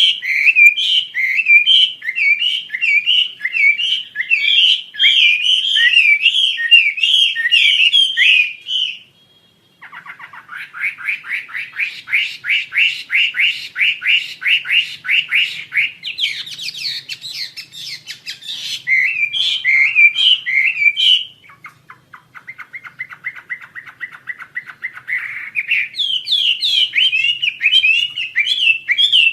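Wambi Asia songbird singing a loud, rapid chattering song. Its phrases of quick sharp notes alternate with fast trills, one of them pitched lower and even. The song breaks off briefly about a third of the way in and again about two-thirds through.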